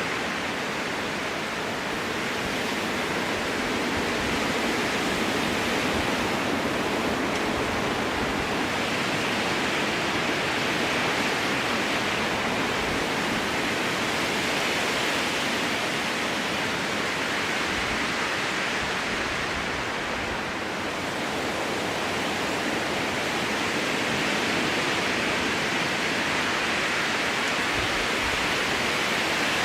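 Strong wind blowing through a spruce forest: a steady rushing of the trees that slowly swells and eases, dipping briefly about two-thirds of the way through.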